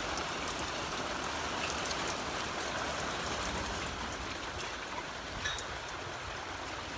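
Steady rain falling in a thunderstorm: an even hiss with faint scattered drip ticks, easing slightly toward the end.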